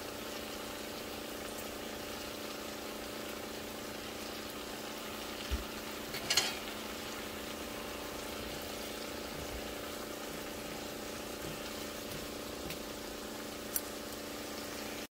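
Sliced white mushrooms and onions sizzling steadily in a frying pan, with a steady low hum underneath. A few light knocks come as silicone-tipped tongs stir them, the loudest about six seconds in.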